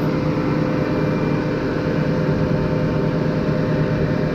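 Heavy diesel truck engine running steadily, a constant hum with no change in speed, from the machinery of a concrete pumping job that is under way.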